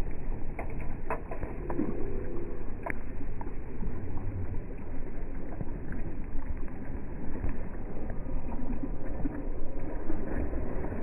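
Waves on the Padma river washing and lapping: a steady, uneven low rushing, with a few light knocks in the first three seconds.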